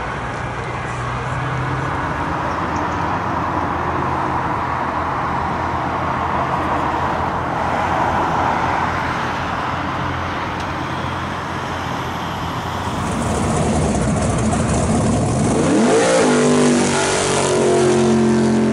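Road traffic and running car engines as a steady rumble. In the last few seconds a car engine revs hard, its pitch climbing, then holds at high revs during a burnout.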